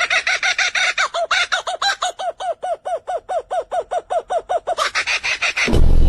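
A bird calling in a long run of short, evenly repeated notes, about five a second, ending in a few louder, harsher calls.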